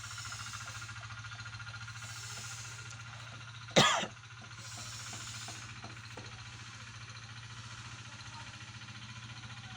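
A person gives one short sharp cough about four seconds in, over a steady low mechanical hum with a fast even pulse.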